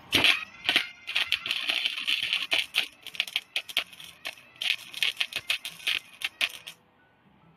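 Electric arc welder crackling and sputtering in dense, irregular bursts, with the machine turned up hotter; the arc breaks off and restarts a few times and stops abruptly about a second before the end.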